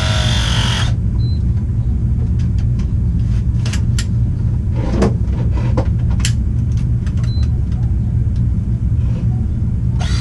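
Steady low machine rumble, with scattered sharp clicks and clinks of small metal parts being handled, most of them in the middle of the stretch.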